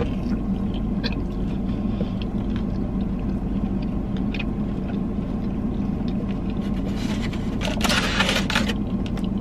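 A person chewing a mouthful of a hot chicken slider on a soft bun, with small mouth clicks, over a steady low hum inside a parked car. A brief rustle comes about eight seconds in.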